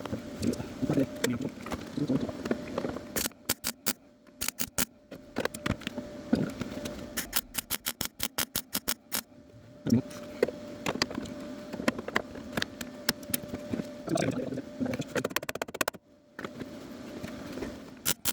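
MIG welder arcing in short, irregular bursts of crackle with brief pauses between them, filling holes in a car's rusted inner sill. A faint steady hum runs underneath.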